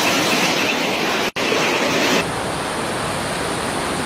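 Loud, steady rush of heavy rain and floodwater, broken by a brief gap about a second in and dropping a little quieter just after two seconds.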